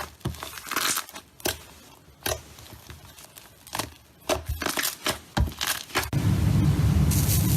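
Slime being squeezed and handled, giving irregular crackles and pops. About six seconds in, a steady rushing noise with a low hum takes over.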